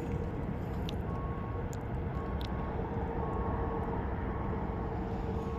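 Steady low rumble of outdoor background noise, with a faint high tone beeping on and off about once a second.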